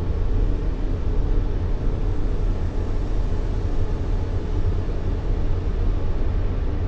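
Steady, unbroken sleep noise, deep and heavy in the bass with little treble, played to calm a crying baby.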